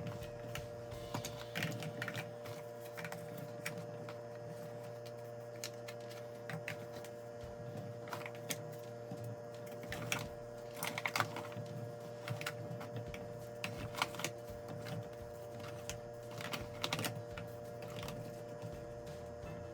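Scattered light clicks and knocks of small hard objects being handled, irregular rather than a steady rhythm, over a steady low appliance-like hum.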